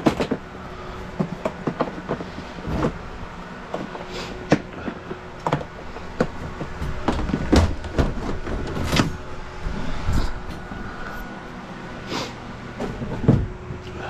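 Irregular clanks and knocks of tools and gear being handled and set down, with the faint steady hum of a running engine underneath.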